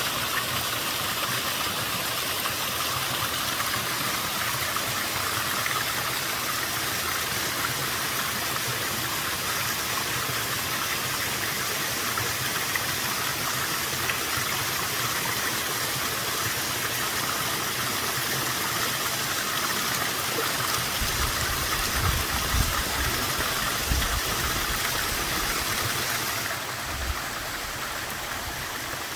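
Small waterfall at fairly low flow, water falling steadily into its pool as an even rushing hiss. Low rumbles come and go in the second half, and about three-quarters of the way in the rush turns a little quieter and duller.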